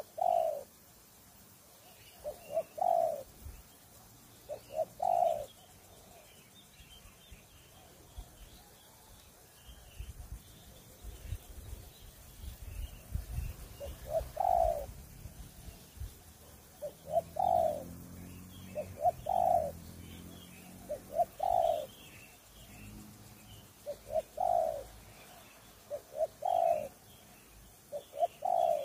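Spotted dove cooing its repeated song, each phrase a couple of short notes followed by a longer one, about ten phrases with a pause of several seconds in the first half. Faint high chirping of small birds underneath, and a low rumble for a few seconds in the middle.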